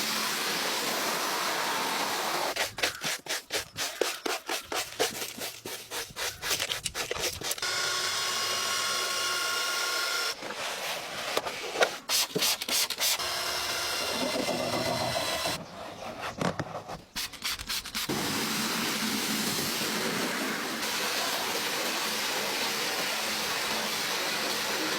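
Automatic car wash running: a steady rushing hiss, broken twice by spells of rapid, uneven slapping lasting a few seconds each.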